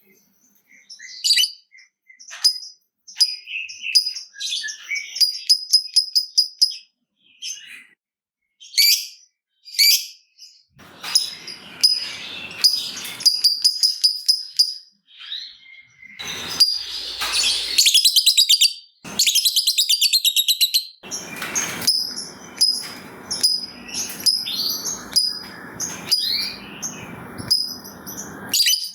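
Lovebirds chattering: sharp high chirps and rapid ticking runs, with a long unbroken rattling trill (the 'ngekek panjang') about two-thirds of the way in.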